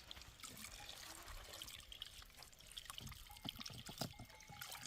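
Faint trickling water, with scattered small clicks and a few soft knocks.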